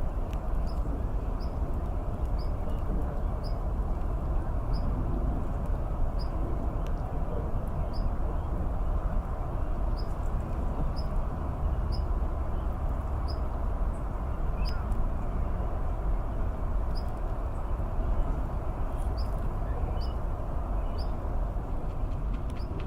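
A small bird repeating short, high chirps, about one a second at uneven spacing, over a steady low background rumble.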